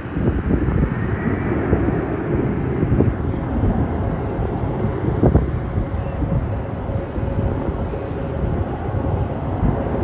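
Embraer E190 jet's turbofan engines running at takeoff power on departure: a steady jet rumble with a faint whine, mixed with wind buffeting the microphone.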